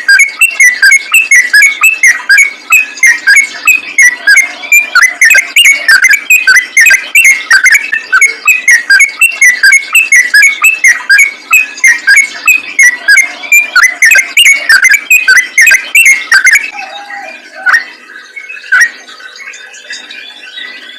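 Sooty-headed bulbul (trucukan) singing a fast, unbroken run of bubbly whistled notes, several a second, the rapid full song that bird-keepers call ropel. A little past the middle the run breaks off, and softer, scattered chirps follow.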